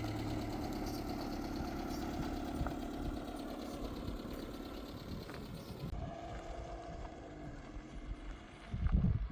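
An engine running steadily, with a hum that gives way to a rougher rumble, and a few loud low thumps near the end.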